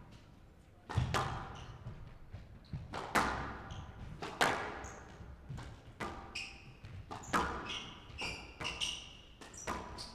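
A squash rally: the ball is struck by the rackets and smacks off the walls in sharp, echoing hits about every second or two, with short squeaks of court shoes on the floor in the second half.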